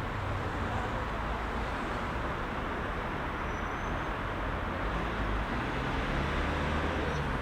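Heavy rush-hour city traffic: a steady wash of car and bus engines and tyre noise with a deep low rumble, no single vehicle standing out.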